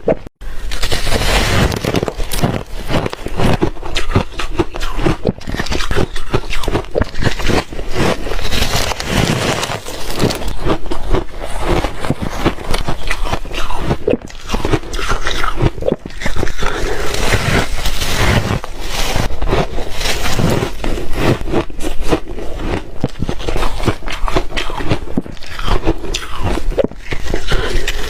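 Close-up crunching and chewing of reshaved refrigerator ice: a dense, irregular run of crunches and scrapes.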